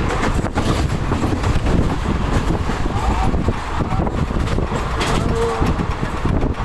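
Passenger train running along the track, heard from on board: a steady loud rumble with the rattle of the wheels and carriage.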